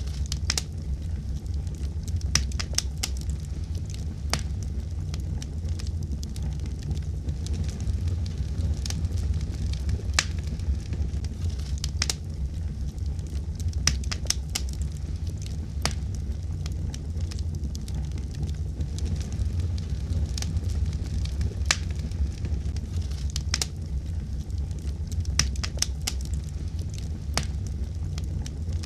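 Fire in a fireplace crackling, with sharp, irregular pops and snaps over a steady low rumble.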